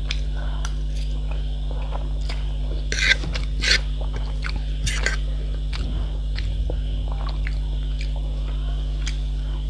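Close-miked eating: chewing and biting, with scattered small clicks and a few louder wet bursts about three and five seconds in. A steady low electrical hum runs underneath.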